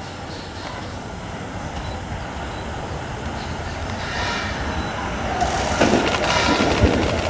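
Electric train with a Toyo IGBT-VVVF inverter running its updated software, its motor and inverter sound growing steadily louder as it gathers speed. A clatter of wheels on the rails joins in about five and a half seconds in.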